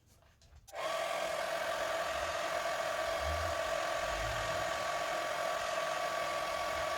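A small electric motor tool switched on and running steadily for about six seconds with an even whirr, then cut off.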